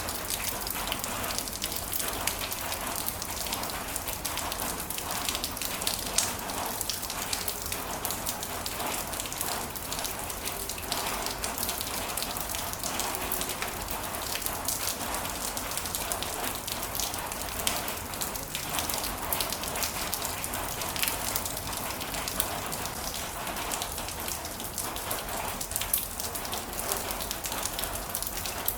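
Heavy rain falling steadily, with many individual drops pattering on a surface.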